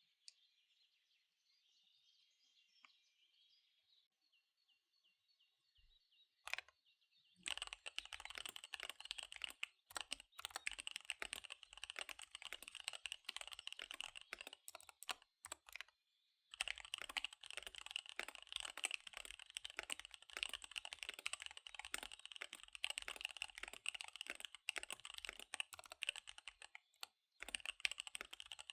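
Fast typing on a KBD75 V3 mechanical keyboard with SP-Star Dark Magic Girl tactile switches and DSA keycaps: a rapid, dense run of key clicks starting about seven seconds in, with a brief pause about halfway through and another near the end.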